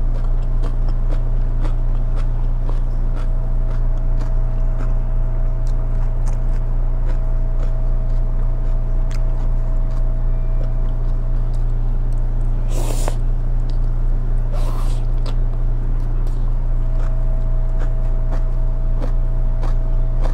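A person chewing and biting crunchy cucumber salad close to the microphone, with frequent small crunching clicks and two short noisy bursts about two-thirds of the way through. A steady low hum runs underneath and is the loudest part.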